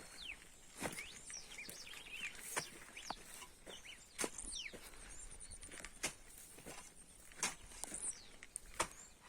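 Birds chirping in short rising and falling calls, with sharp knocks every second or two.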